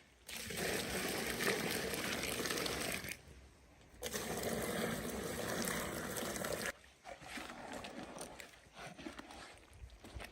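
Water being poured in two spells of about three seconds each, both starting and stopping abruptly.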